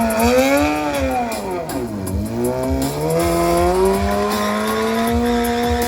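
Car engine revved in quick rises and falls, dropping back about two seconds in, then climbing and held at high revs for a burnout, with tyre squeal under it.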